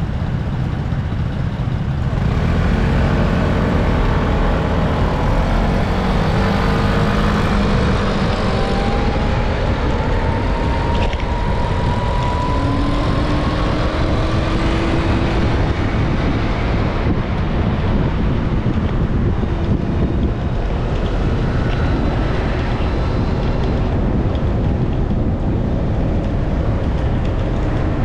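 Steady rush of wind on the microphone with road and traffic noise while riding. Now and then a vehicle engine rises in pitch as it speeds up, most clearly about ten to thirteen seconds in.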